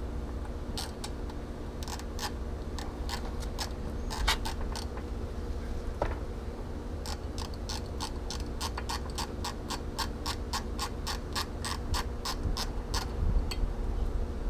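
Hand socket ratchet clicking as it backs out a lower-unit bolt on an outboard motor, in short runs of strokes and then a steady run of about five clicks a second for several seconds.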